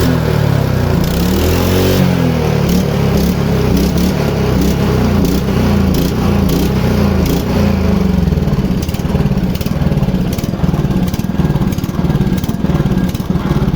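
Einhell Royal 46s petrol lawn mower engine running steadily, its speed dipping and recovering a few times.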